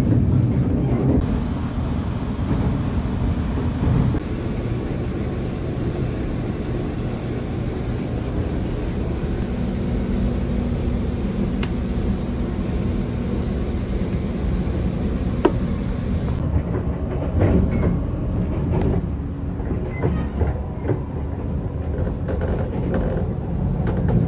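West Express Ginga train running, heard from inside the passenger car: a steady low rumble of the wheels on the rails, with occasional sharp clicks and knocks.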